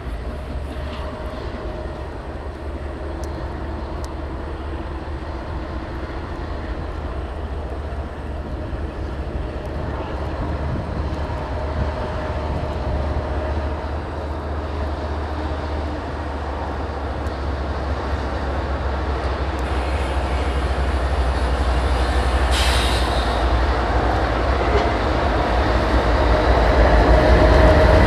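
Freight train rolling through a rail yard: steady diesel locomotive rumble and the noise of the cars, growing gradually louder as it comes closer. A short, sharp noise cuts in briefly near the end.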